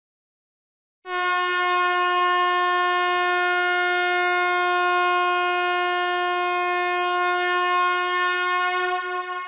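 A horn blowing one long, steady, unchanging note for about eight seconds, starting about a second in and fading away near the end.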